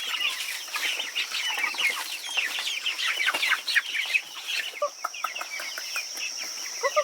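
Flock of chickens clucking and peeping in a dense, continuous chatter, with a steady high-pitched hum underneath.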